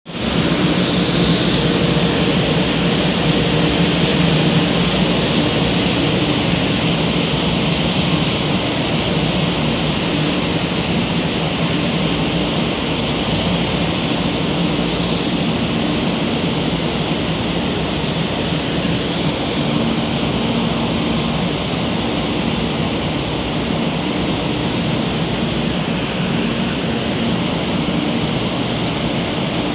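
Steady rushing noise with a low hum beside a standing 500 Series Shinkansen, from the train's running equipment and the covered platform's ambience.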